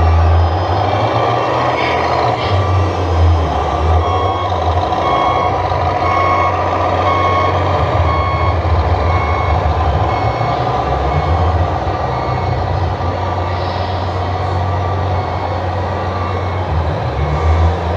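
Reversing beeper from a radio-controlled model truck's sound module, short beeps repeating about once a second over a steady low engine rumble.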